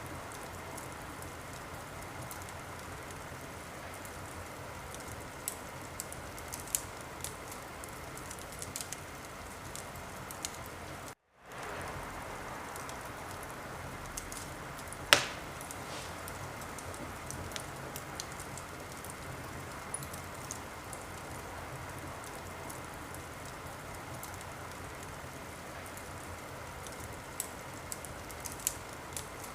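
Wood fire crackling in a fireplace: a steady hiss with scattered small pops and one much louder crack about halfway through. The sound cuts out to silence for a moment a little over a third of the way in.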